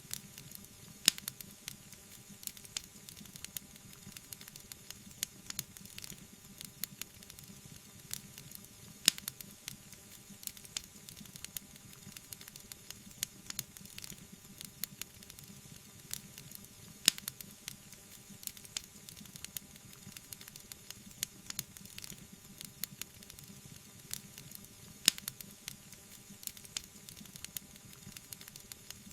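Wood fire crackling: a steady run of small snaps and pops over a soft hiss, with a few sharper, louder pops about every eight seconds.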